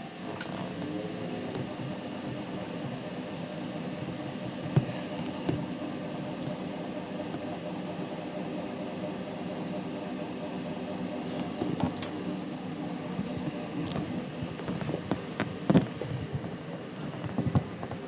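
Hotpoint washing machine running with a steady hum, several tones held together. Short knocks and rustles of clothes being handled come through, more often in the second half.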